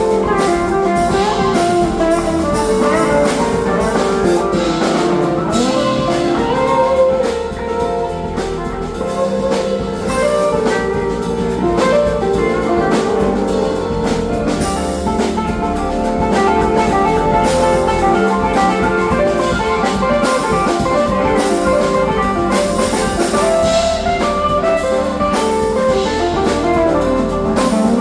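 Live funk band playing, with guitar and drum kit over a steady beat.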